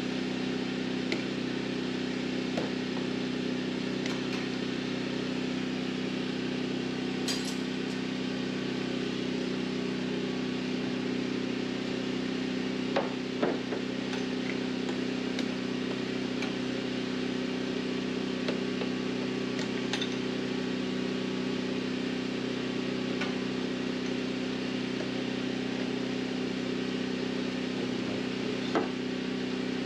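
Occasional metallic clicks and clinks of hand tools at work over a steady, even mechanical hum.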